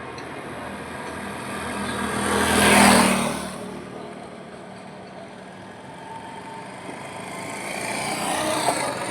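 Highway traffic: a vehicle passes close by about three seconds in, its engine and tyre noise swelling and then fading away. After a quieter stretch a second vehicle approaches near the end.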